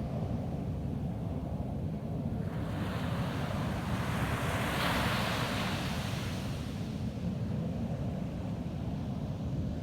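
Ocean waves breaking on a sandy beach: a steady low rumble of surf, with one wave's hissing wash swelling about two and a half seconds in, peaking around the middle and fading away. Wind noise on the microphone.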